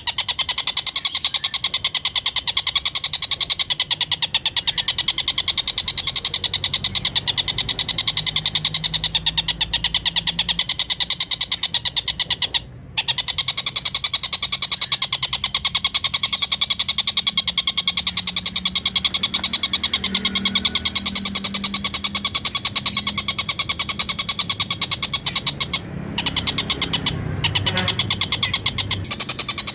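Collared kingfisher (tengkek buto) giving its cackling 'ngekek' call: a fast, continuous chatter of repeated notes. It breaks off briefly about halfway through and again near the end.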